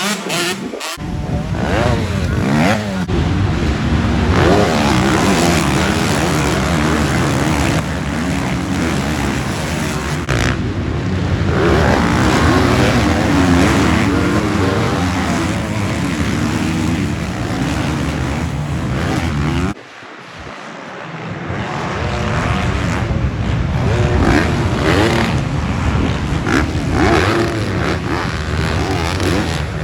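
Several motocross bikes' engines revving up and down as they race, their pitches rising and falling over one another. About two-thirds of the way through, the sound drops away suddenly, then builds back up.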